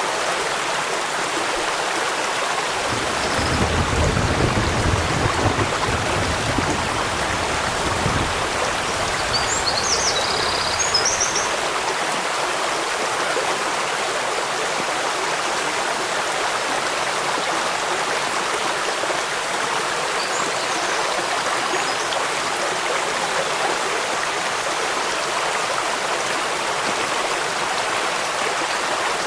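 Steady rushing of a stream with rainfall. A low rumble swells in about three seconds in and fades by about eight seconds, and a few faint high chirps come around ten seconds in and again near twenty seconds.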